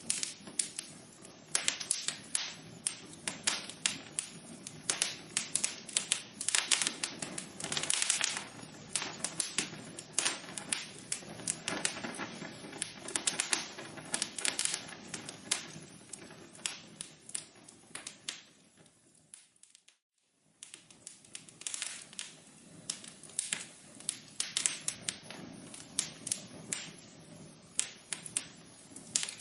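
Wood fire crackling in a fireplace, with a steady hiss under irregular sharp pops and snaps. About two-thirds of the way through it briefly fades out to near silence, then comes back.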